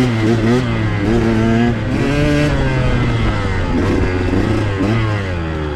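2021 KTM 125XC's 125cc single-cylinder two-stroke dirt bike engine under way on a trail ride, revving up and dropping off again and again as the throttle is worked, its pitch rising and falling several times.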